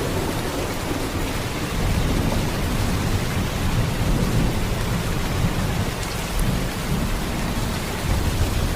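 Heavy rain in a steady downpour: an even, dense hiss of rain with a deep low rumble beneath it, no single drops or strikes standing out.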